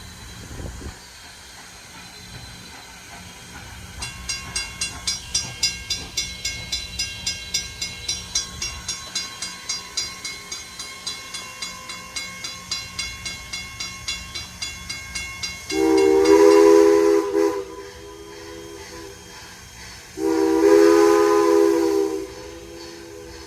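A steam locomotive's bell rings in steady strokes, about two to three a second, slowly fading. Then its chime whistle blows two loud blasts of a few steady tones, each under two seconds long.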